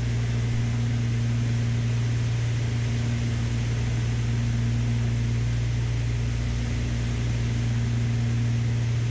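Twin piston engines of a Beechcraft Baron B55 heard from the cockpit in flight: a steady low drone with an even hum, unchanging throughout.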